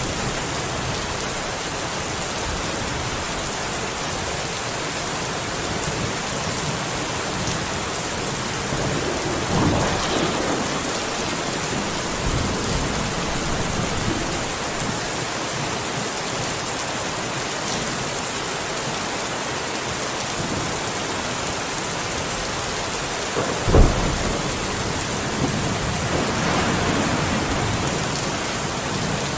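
Steady heavy rain with thunder: a low rumble about a third of the way in, then a sharp, loud thunderclap near the end followed by a longer rolling rumble.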